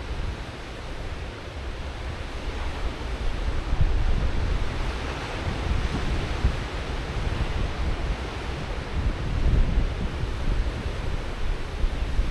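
Ocean surf washing onto the beach, a steady hiss of breaking waves that swells around the middle, with wind buffeting the microphone in a gusty low rumble.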